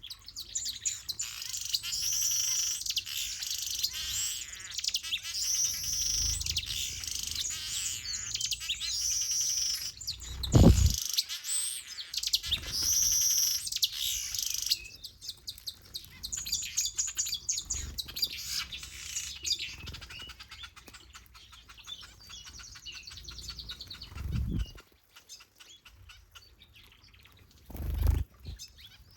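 Mixed aviary finches and softbills chirping and singing, a busy chorus of overlapping calls with a short phrase repeating every second or two, thinning out about halfway through. A few dull low thumps break in, the loudest about a third of the way in.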